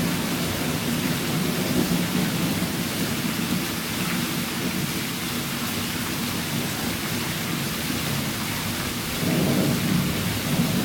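Steady heavy rain with thunder rumbling, the rumble swelling near the start and again about nine seconds in.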